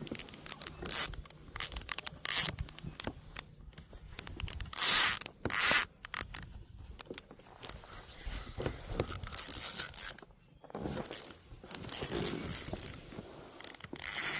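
Spinning reel being cranked while a hooked bass is fought in, its gears and handle clicking and ratcheting in uneven runs, with two short, louder rushes of noise about five seconds in.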